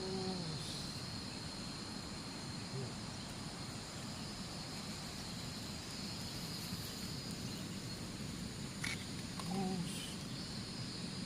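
Insects droning steadily in a high, thin, unbroken tone over a constant background hiss. A brief pitched sound comes at the start and another about ten seconds in.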